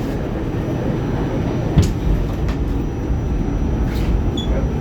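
R46 subway car running along the track, heard from inside: a steady low rumble with a few sharp knocks, the loudest a little under two seconds in.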